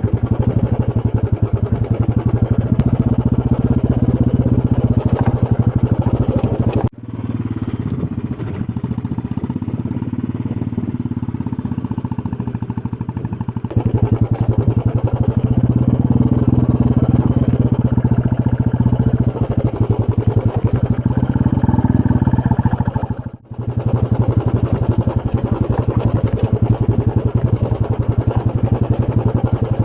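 Motorcycle engine running steadily while riding, recorded up close. It drops out sharply about 7 seconds in, runs quieter and duller for several seconds, then drops out briefly again about 23 seconds in.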